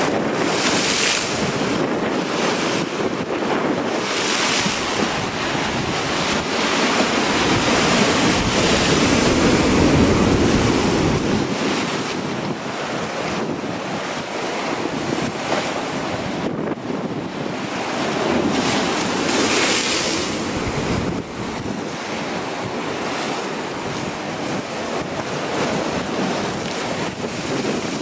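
Strong, gusty sea wind buffeting the microphone over the rush of surf, swelling loudest about a third of the way through, with short hissing gusts.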